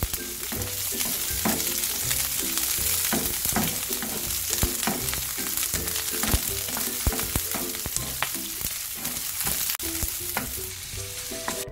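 Chopped green onions sizzling in hot oil in a nonstick frying pan, frying down into scallion oil, with a spatula stirring and scraping against the pan in frequent sharp ticks. Faint background music plays underneath.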